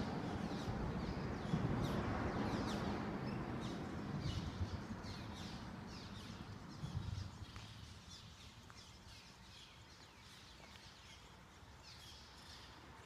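Birds calling: many short, high chirps repeating throughout, over a low rumble that fades out about halfway through.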